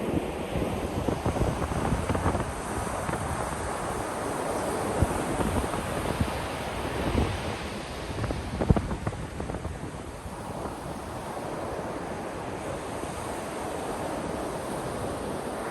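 Ocean waves breaking and washing ashore, with a surge that swells over the first half and then settles into a steadier wash. Wind knocks on the microphone with short low thumps.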